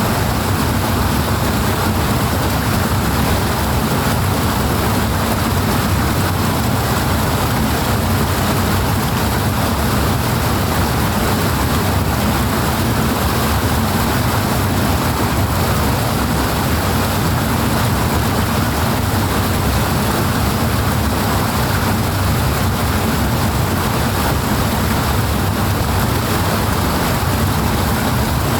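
Powerful rushing water, a steady and unbroken roar of flow.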